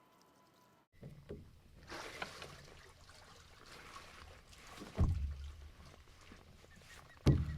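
Water pouring and trickling, as from a crab trap hauled up out of a lake, with two heavy thumps about five seconds in and near the end.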